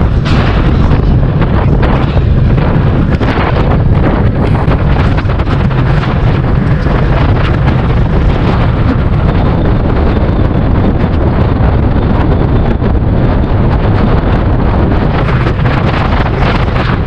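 Wind buffeting the microphone, a loud steady rumble, from riding a bicycle into a headwind.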